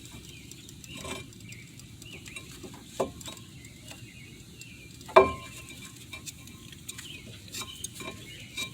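Metal clinks and scraping from a brake caliper compression tool being worked against the caliper piston, with scattered sharp clicks; the loudest is a single metallic clank about five seconds in that rings briefly.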